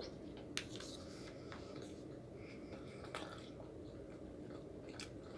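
A person chewing food close to the microphone, with a few sharp clicking mouth sounds, over a steady low hum.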